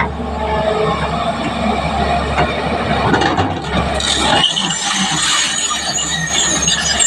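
Heavy road-construction machinery running, with a steady low engine drone. About four and a half seconds in the drone drops away and high-pitched metallic tones take over.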